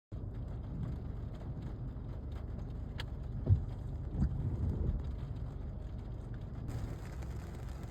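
Car driving, a steady low rumble of engine and road, with a sharp click about three seconds in and two dull thumps shortly after.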